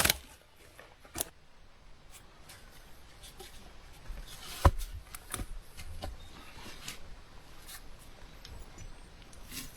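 Rustling and light crackling of moss and twigs being handled and stuffed into the gaps of a shelter, with scattered small clicks and one sharp snap or knock nearly five seconds in.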